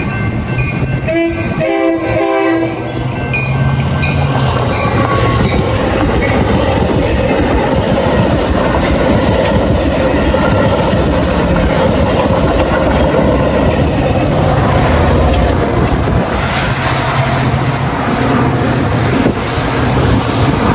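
A train sounds a short horn blast about a second in, then runs through the station at speed without stopping, its wheels and cars making a loud, steady rush and rumble.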